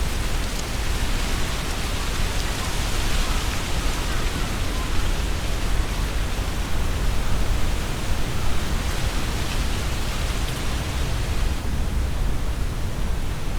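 Strong wind gusting through trees, the leaves rustling in a steady hiss that swells and eases, over a deep low rumble of wind. The rustling thins a little near the end.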